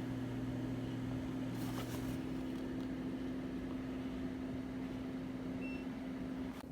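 Microwave oven running with a steady electrical hum; a few light clicks come about two seconds in.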